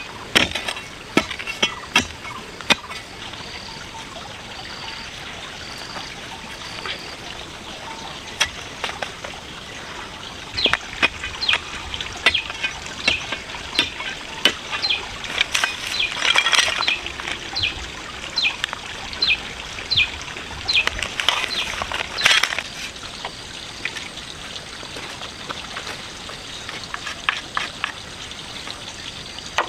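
Water splashing and dribbling with short sharp knocks, and a bird calling four times, about a second apart, a few seconds in.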